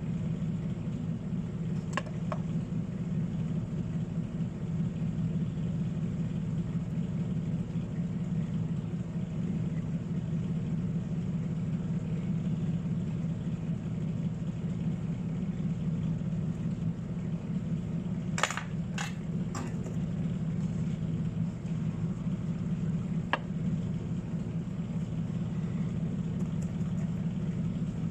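Steady low mechanical hum, like a running fan or motor, with a few light sharp clicks: one about two seconds in, three in quick succession past the middle, and one more a few seconds later.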